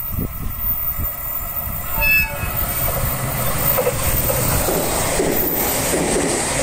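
Short courtesy horn toot from an E721 series 1000 + 701 series six-car electric train about two seconds in. The train then comes close and passes, its running and wheel-on-rail noise building to a steady loud rush.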